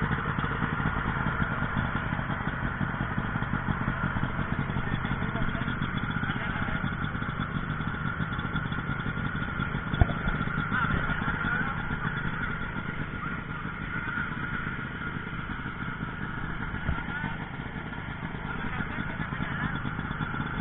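An engine running steadily during an engine test, with one sharp knock about halfway through.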